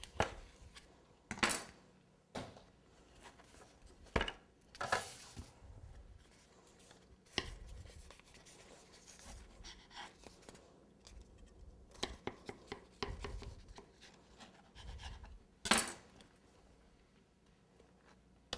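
Kitchen knife cutting through sponge cake on a cake board: scattered knocks, taps and scrapes, a few sharper ones spread through.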